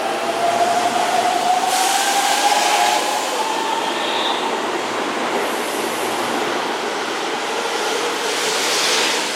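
Keihan 3000 series electric train running with steady rail noise, and a whine that rises slowly in pitch over the first few seconds.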